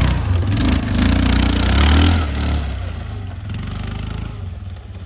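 ATV engine revving hard under load, with clattering and scraping over it, then dropping to a lower, quieter running note after about two and a half seconds.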